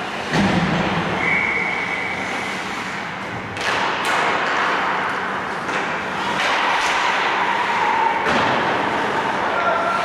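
A heavy thud about a third of a second in, then sharper knocks around four and eight seconds in, from play in an ice hockey game, over the rink's steady background noise.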